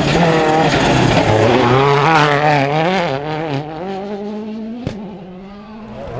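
A 1.6-litre turbocharged four-cylinder World Rally Car engine at racing revs, the pitch rising and falling as the driver works the throttle and gears, then fading as the car drives away from about three seconds in. There is one sharp crack about five seconds in.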